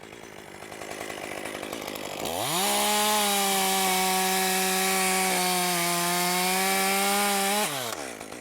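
Chainsaw idling, then revved to full throttle about two seconds in and held for about five seconds while cutting through dead ash wood, the pitch sagging slightly under load, before dropping back to idle near the end.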